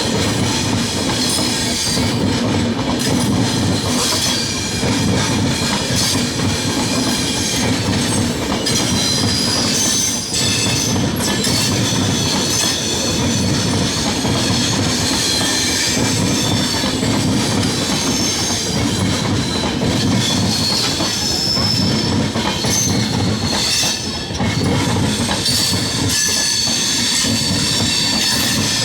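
A long passenger train running past at close range: a steady rumble and clatter of wheels on the rails, with a high metallic squeal from the wheels above it.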